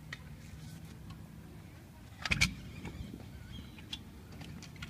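Skateboard wheels rolling on a ramp, a steady low rumble, with a short clatter of knocks about two and a half seconds in as the board strikes the ramp.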